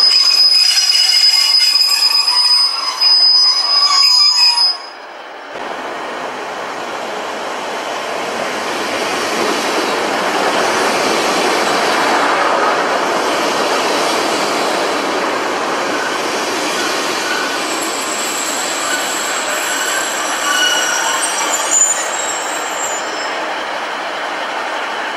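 Class 150 Sprinter diesel multiple units: a high steady wheel squeal for the first five seconds or so, then, after an abrupt change, a unit's running noise swelling and easing off as it moves past. Near the end come more high-pitched wheel squeals as a unit runs along the platform.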